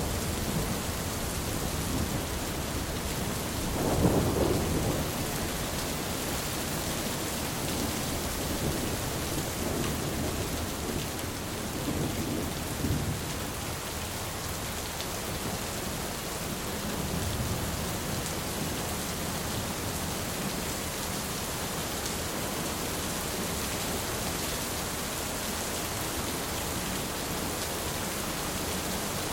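Thunderstorm: steady heavy rain with rolling thunder. A low rumble swells about four seconds in, and fainter rumbles follow later.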